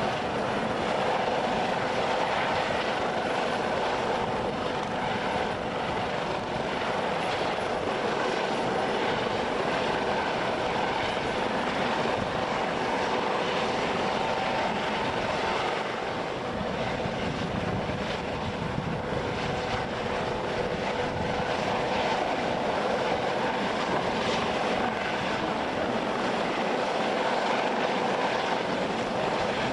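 Helicopter running steadily, a continuous loud noise with a few held hum tones and no letup.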